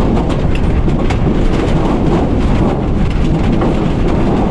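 Strong wind buffeting an electric tricycle camper, heard from inside the cabin: a loud, steady low rumble with scattered faint ticks.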